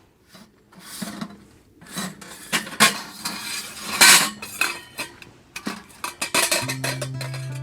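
Metal cookware and utensils clattering and clinking in irregular knocks and scrapes, louder from about a second in. Guitar music comes in near the end.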